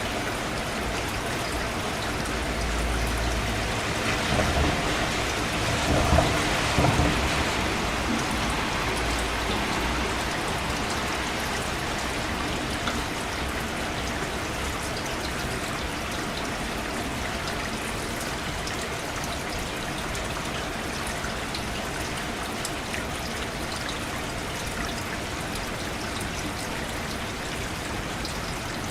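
Steady rain falling, an even hiss of drops on a surface. A few seconds in it swells louder for several seconds, with a low rumble underneath, then settles back to a steady fall.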